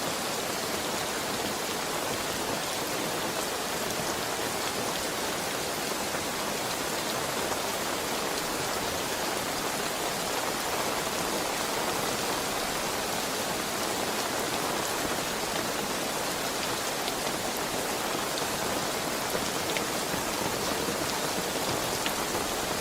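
Steady heavy rain falling, an even hiss with scattered drops pattering on a surface.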